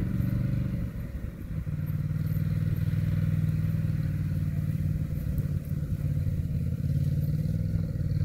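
Polaris Sportsman 850 ATV engine running at low speed as the loaded machine creeps forward: a steady low drone that dips briefly about a second in.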